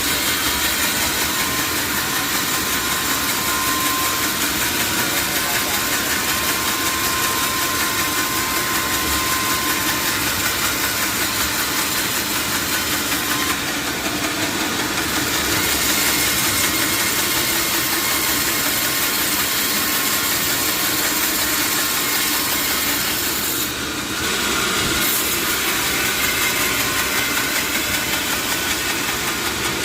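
Sawmill machinery running with a steady mechanical din, dipping briefly twice.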